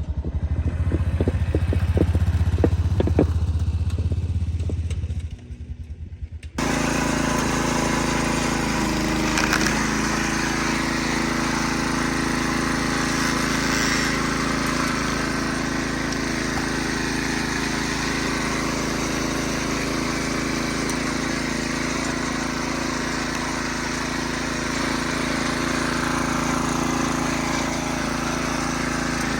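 Predator single-cylinder small engine on a hydraulic wood splitter, running steadily. The sound changes abruptly about six and a half seconds in, from a deep low hum to a fuller, steady engine note.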